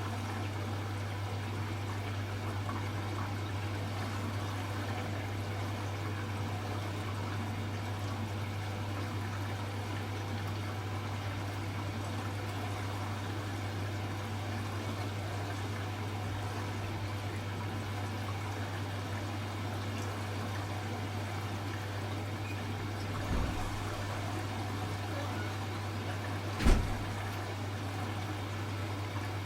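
Hoover H-Wash 300 Plus washing machine with water running through it during its rinse stage: a steady rushing of water over a low hum. There is a small knock about three quarters of the way in and a sharper, louder knock near the end.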